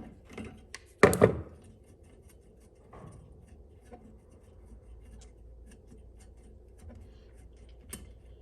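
Hand work on fuel-pump wiring with small tools: a loud clatter about a second in, then scattered quiet clicks and small knocks.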